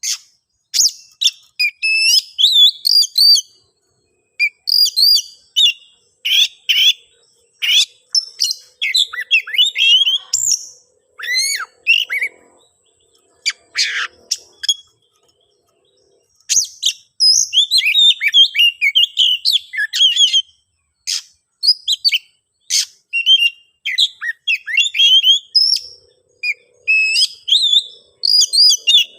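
Oriental magpie-robin (kacer) singing a fast, varied run of loud whistles, chirps and trills in bursts, with short breaks about four and fifteen seconds in. It is the agitated, full song that the uploader presents as the bird ready to fight a rival.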